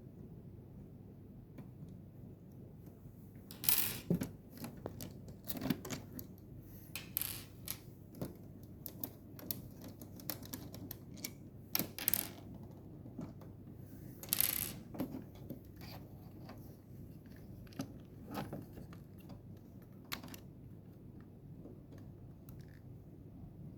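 Irregular small clicks, taps and rustles of hands handling the small plastic parts of a pump's display unit, which start about four seconds in and die away near the end, over a low steady hum.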